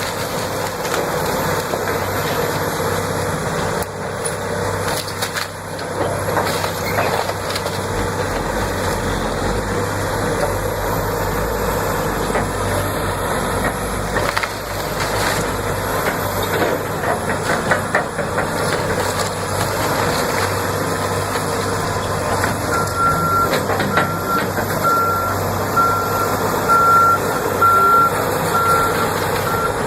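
Heavy truck or machinery running with scattered knocks and clatter. In the last seven seconds or so a reversing alarm beeps steadily, about once a second.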